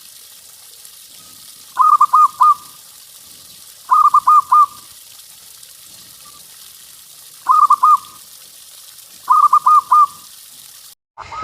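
Zebra dove (perkutut) cooing: four bouts of its quick run of about four coo notes, spaced a couple of seconds apart, over a steady hiss. Right at the end the recording cuts to a different, louder call.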